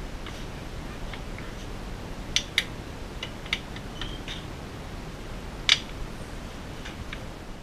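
Homemade plastic squirt bottle and fuel tubing handled at a carburetor while filling its float bowls with gas: scattered sharp clicks and taps, a few louder ones, over a steady low background hum.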